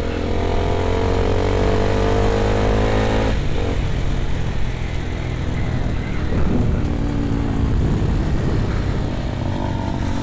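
Single-cylinder engine of a Honda CBR 250R motorcycle under way, with wind noise on the microphone: the engine note climbs steadily as the bike accelerates, then drops abruptly about a third of the way in, and a steady engine note returns near the end.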